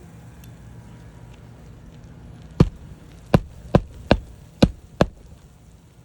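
Hammer driving a roofing nail into an asphalt shingle: six sharp strikes in about two and a half seconds, starting a little before halfway.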